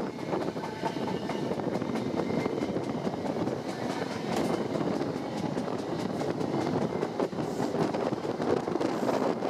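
Passenger train running along the track, heard from inside the carriage: a steady rumble of wheels on rail with scattered light clicks.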